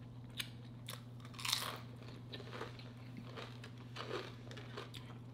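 Mouth sounds of a person eating: soft chewing and biting with a few small clicks, and a brief crunch about a second and a half in.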